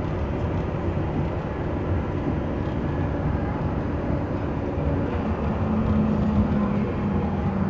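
Walt Disney World monorail running: a steady low rumble with a faint motor hum that drops slightly in pitch about five seconds in.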